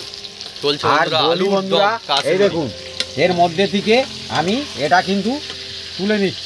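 Potatoes and spices sizzling in hot oil in a karahi while being stirred with a ladle, with a person's voice talking over the frying.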